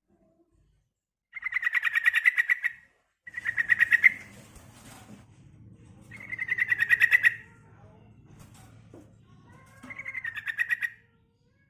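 Yellow-vented bulbul (trucukan) giving four bursts of rapid chattering notes, about ten a second, each burst lasting a second or so. It is a female's call, used as a lure to draw males into answering.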